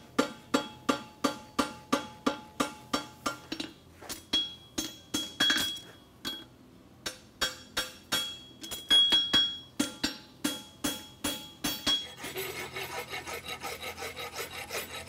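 Hammer striking a steel horseshoe on an anvil, about three ringing blows a second with a brief pause midway, as the farrier dresses the shoe's edges while it is still hot. About twelve seconds in, the hammering gives way to quick, steady strokes of a farrier's rasp filing the shoe.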